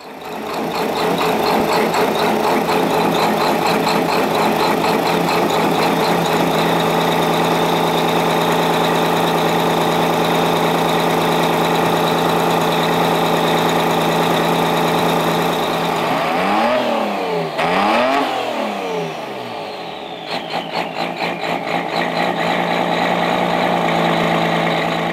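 Detroit Diesel engine of a race truck running loud and steady at high revs. About two-thirds of the way through, its pitch dips and climbs back twice, then it runs with a fast rhythmic pulsing for a few seconds before steadying again.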